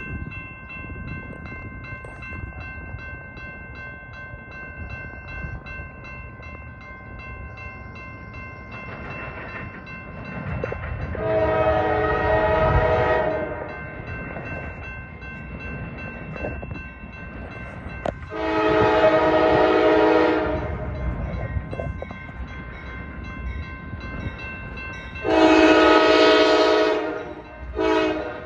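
Railroad locomotive air horn sounding a grade-crossing signal: three long blasts and a short one, with the last long blast following just after, over the rumble of the approaching train.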